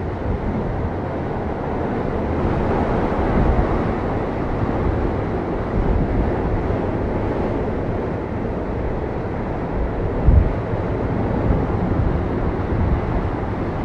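Hurricane wind and surf: a steady rushing noise with gusts buffeting the microphone, one stronger low gust about ten seconds in.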